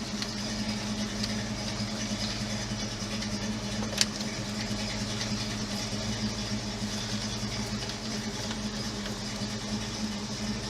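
1969 Ford Mustang Mach 1's V8 engine idling steadily, with one sharp click about four seconds in.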